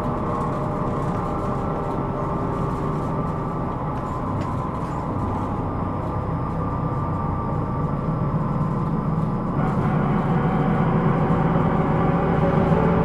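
Hino Rainbow II (SDG-KR290J1) non-step bus heard from inside the cabin while driving, its diesel engine hum and road noise running steadily. About ten seconds in, the engine gets louder as the bus picks up load.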